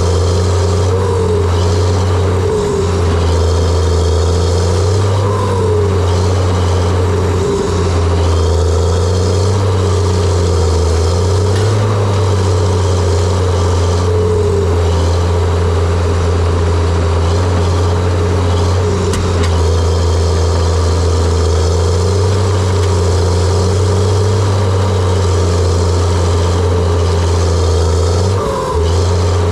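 John Deere 700J-II crawler dozer's diesel engine running steadily, with a few short squeals over it.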